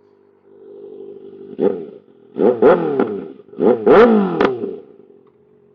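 2025 Kawasaki ZX-6R's 636 cc inline-four, fitted with a still-catted Voodoo Racing slip-on exhaust, idling and then blipped sharply about six times in two quick clusters, each rev dropping straight back toward idle. It is very loud.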